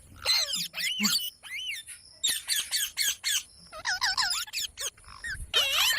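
Parrot calling in a quick run of short squawks and chirps that swoop up and down in pitch, with brief pauses between bouts.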